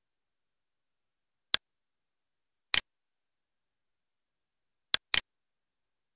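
Computer mouse button clicks: single clicks about one and a half and nearly three seconds in, then a quick double click near five seconds.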